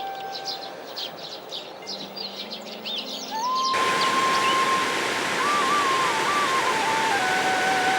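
Small birds chirping. About halfway through, an abrupt cut to a louder steady rush like running water, with a long held whistling tone that wavers and then steps down in pitch.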